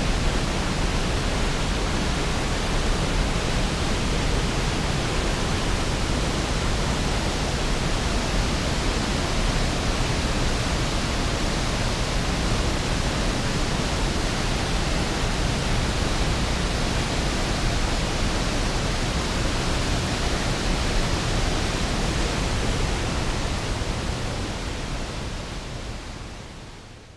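A large waterfall's steady rush of falling water, heavy in the low end, fading out near the end.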